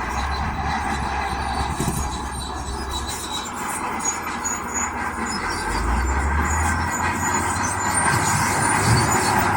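Heavy diesel earthmoving machinery at work: a steady engine hum under a continuous grinding, rattling running noise.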